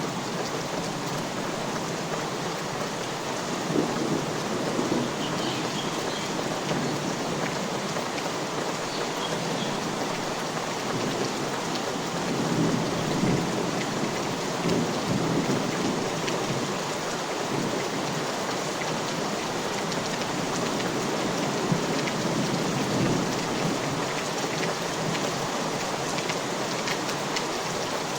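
Steady rain falling on surfaces as an even hiss, with low rumbling swells building up a few times: about 4 seconds in, around the middle, and again later.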